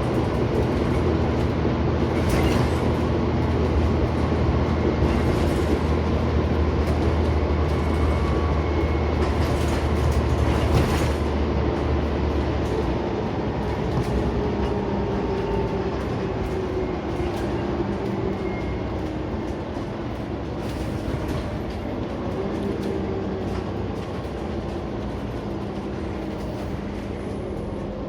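Scania CN94UB Omnicity bus under way, heard from inside: steady engine drone and road rumble with rattles from the body. The low engine drone drops away about halfway, and a whine slowly falls in pitch after it.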